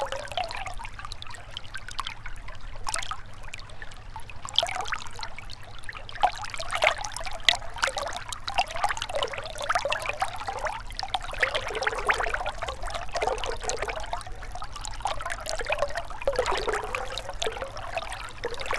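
Gentle river trickling and gurgling, a steady run of small, irregular splashes and bubbling.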